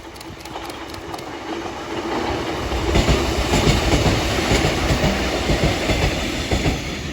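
Kotoden retro electric train running by, its wheels clattering over the rail joints. It grows louder over the first three seconds, holds, and eases slightly near the end.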